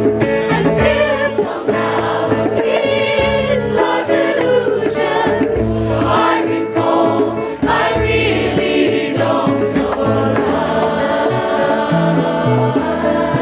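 Mixed amateur choir singing in full voice, accompanied by guitar, bass and djembe hits.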